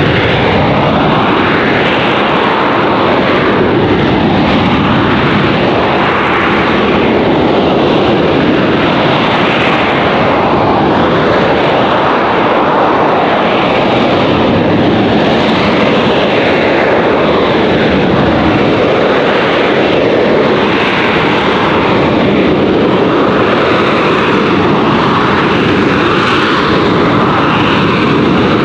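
AV-8B Harrier II's Rolls-Royce Pegasus turbofan at high power while the jet hovers on its vectored nozzles: loud, steady jet noise with slow swishing sweeps in its tone as the aircraft moves and turns.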